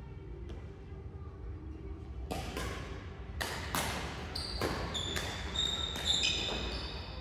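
Badminton rally: from about two seconds in, rackets strike the shuttlecock several times in quick succession, with shoes squeaking on the court floor between the hits.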